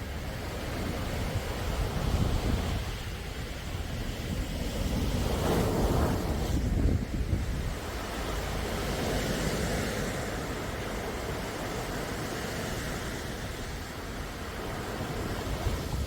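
Sea waves washing in and breaking, a steady rushing wash that swells and falls back, with one larger wave about five to seven seconds in.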